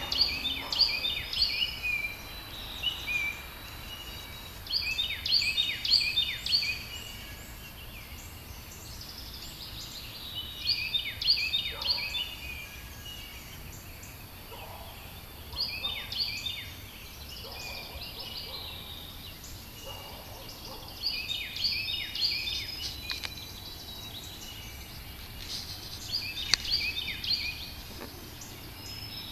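A songbird singing a short phrase of quick, down-slurred, high notes, repeated about every five seconds, over a faint steady background hum.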